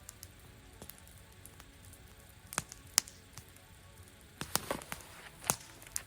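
Wood campfire crackling: scattered sharp pops over a soft low hiss, two a little after two and a half seconds in and a denser run of pops from about four and a half seconds on.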